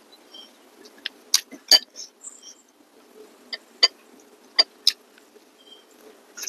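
Close-up mouth sounds of eating: sharp wet smacks and clicks of lips and teeth while chewing meat, coming irregularly several times, about a second or less apart.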